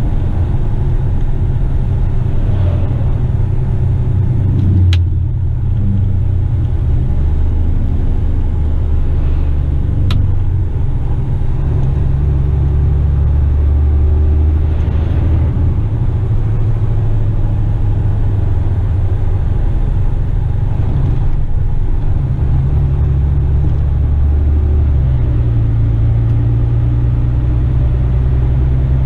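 Western Star tipper truck's diesel engine running while driving, heard from the cab: a steady low drone whose pitch steps up and down several times. Two short sharp clicks about five and ten seconds in.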